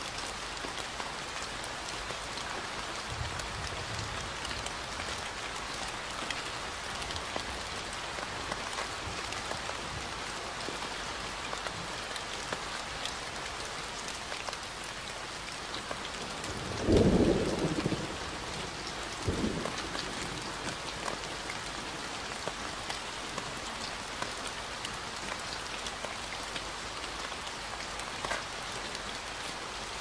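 Steady rain falling on forest foliage and a path, an even hiss. A little past halfway a short, loud clap of thunder breaks through, followed about two seconds later by a smaller one.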